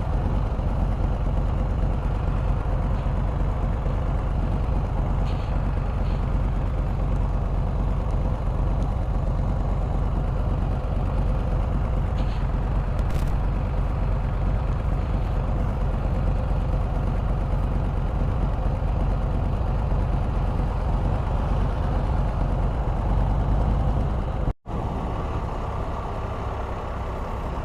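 Can-Am Spyder RT three-wheeled motorcycle on the move: steady engine rumble mixed with road and wind noise. The sound cuts out for an instant about 24 seconds in and comes back slightly quieter.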